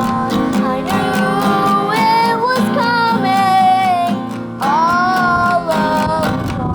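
A young girl singing a melody, holding and sliding between notes, over a strummed acoustic guitar.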